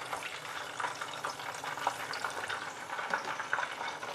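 Tofu frying in hot oil: a steady sizzle full of small pops and crackles.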